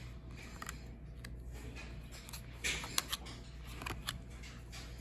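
Baseball trading cards being handled and sorted: scattered light clicks and short rustles of card stock, the loudest about three seconds in, over a steady low room hum.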